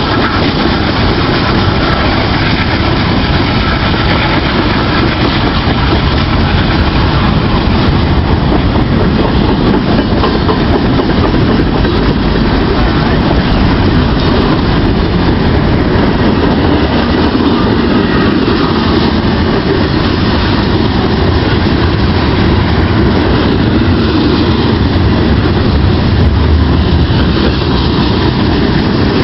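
Norfolk Southern freight train's cars passing at high speed, a steady loud rush of steel wheels on rail.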